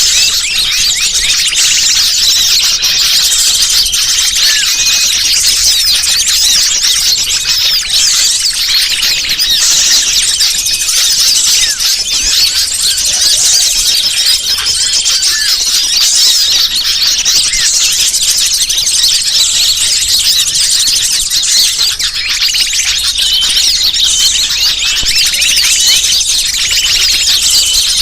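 Dense, steady chorus of many small songbirds chirping and twittering all at once, with quick high notes overlapping continuously. It is a bird-lure (pikat) recording of the kind played to draw wild birds in.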